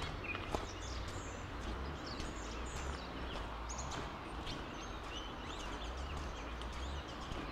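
Small birds chirping and twittering in quick short calls over a steady outdoor background hiss with a low rumble.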